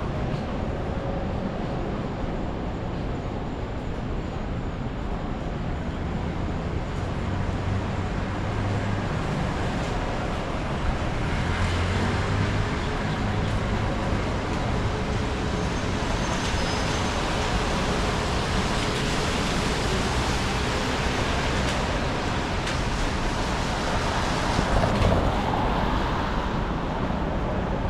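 Steady city street traffic noise, with a louder swell near the end as a vehicle passes.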